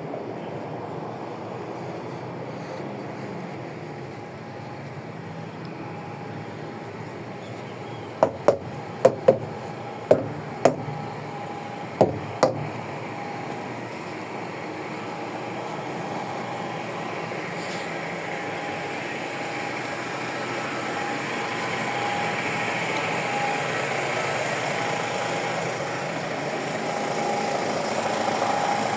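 Truck engine running steadily, growing gradually louder through the second half. A quick series of about eight sharp clicks or knocks comes about a third of the way in.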